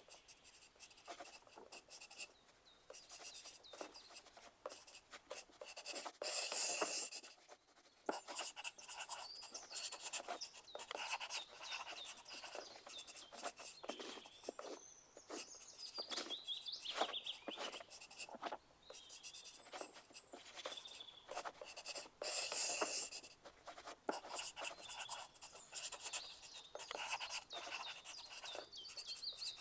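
Pencil writing on paper: a steady run of short scratching strokes. Two louder rustles break in, about six and twenty-two seconds in.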